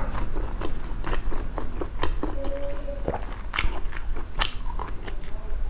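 Biting and chewing into a grilled sausage on a wooden skewer: a run of short, wet mouth clicks, with two sharp crunchy bites about three and a half and four and a half seconds in.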